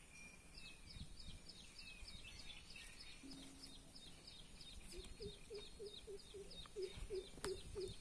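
A bird calling in a fast, faint run of short, falling chirps, about four a second, with a lower repeated call joining in about five seconds in.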